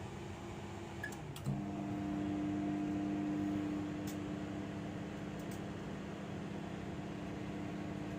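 A microwave oven being started: a short beep and a few clicks, then a thump about a second and a half in as it switches on and runs with a steady hum.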